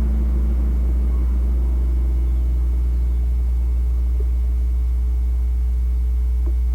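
Chevrolet 5.3L V8 running at a steady speed, a deep, even exhaust drone that holds constant without revving.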